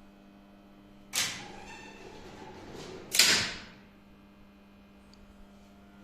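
Elevator machine-room gear: two loud sharp clacks about two seconds apart, the second the louder, with a rushing noise between them, over a steady electrical hum.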